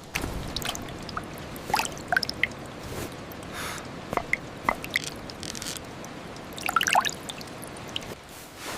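Water dripping in scattered, irregular plinks over a steady hiss of rain, the drips bunching up about two seconds in and again about seven seconds in.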